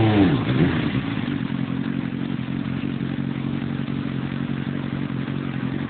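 Suzuki GSX-R 750 SRAD's inline-four engine idling steadily.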